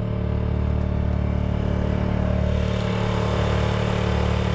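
A sailing yacht's auxiliary engine running steadily at a constant speed.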